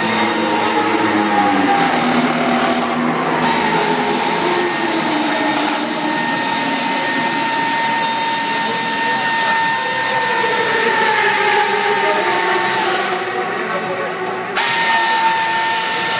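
Racing motorcycle engines running at high revs: a continuous high whine whose pitch holds, then shifts, with a sudden jump in pitch and level near the end.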